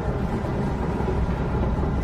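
Steady low rumble of a moving vehicle, heard from inside its passenger cabin.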